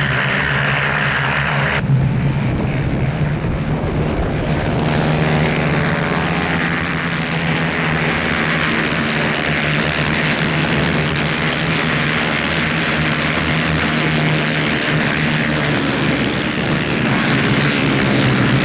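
Two-stroke 250cc superkart engines running hard at high revs during a race, a steady loud buzzing drone; the sound shifts abruptly about two seconds in.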